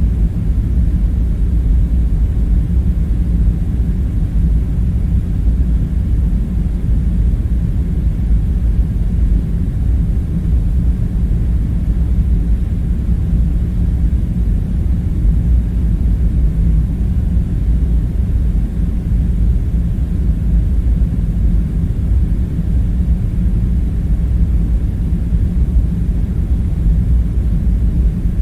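Steady deep background rumble with a faint low hum in it, even throughout with no distinct events: an ambience track's room drone for an underground bunker.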